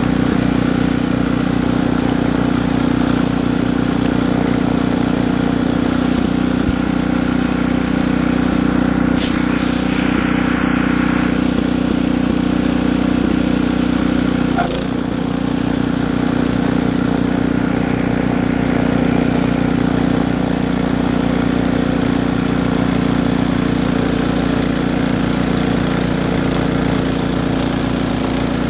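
Snowblower engine running steadily, with a brief slight dip in level about halfway through.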